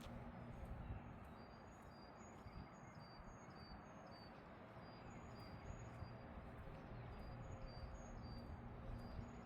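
Faint outdoor ambience: high, short chirps repeating a few times a second, alternating between two pitches, over a steady low rumble.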